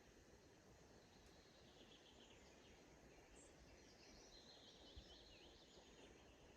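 Faint, distant birdsong, a few quick chirping phrases over a quiet steady outdoor hiss, with a single soft low thump about five seconds in.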